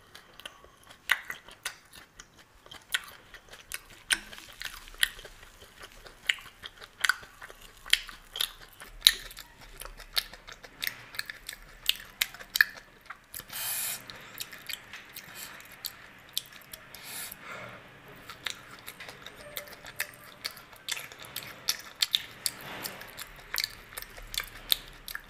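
Close-miked chewing and mouth sounds of a person eating spicy ghugni (dried-pea curry) and fried chop by hand: many short, irregular wet smacks and clicks.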